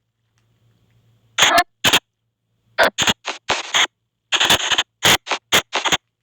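Spirit box app on a phone playing short chopped bursts of noise and garbled audio fragments, cut apart by gaps of silence. The bursts start about a second and a half in and come in quick succession, about a dozen of them.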